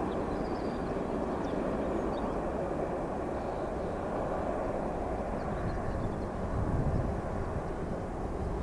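Jet airliner's engine rumble during a landing, a steady low noise that slowly fades.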